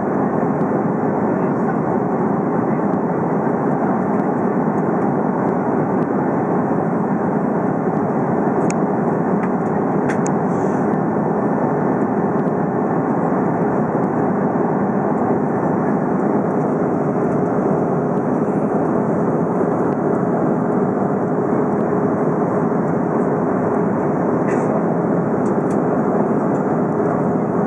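Steady roar of an airliner in cruise heard inside the cabin: engine and airflow noise with a constant low hum, unchanging throughout, with a few faint clicks.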